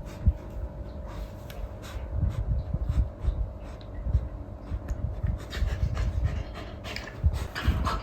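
Golden retriever panting close to the microphone in an uneven run of breaths, with a couple of sharp clicks and a faint steady hum underneath.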